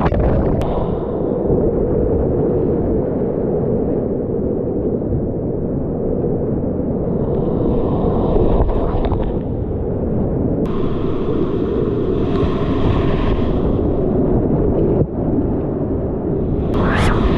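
Whitewater rapids rushing in a steady, loud low roar, with brighter hissing splashes coming and going and a short surge of splash near the end.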